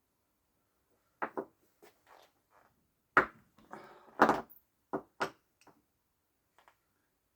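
Scattered knocks and clicks of small metal parts being handled and set against one another while a spacer ring and a ball bearing are fitted onto a robot-mower wheel-motor shaft. The two loudest knocks come about three and four seconds in.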